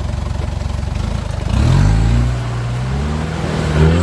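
Off-road 4x4's engine idling, then revved up about a second and a half in and held, its pitch climbing slowly, before it is let off near the end.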